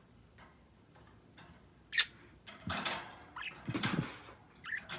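Pet birds making a few short chirps among scratchy rustling and clicking sounds, with a sharp click about two seconds in and two noisy spells of rustling around the middle.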